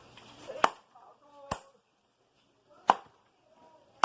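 Wood being chopped: four sharp single blows at uneven intervals.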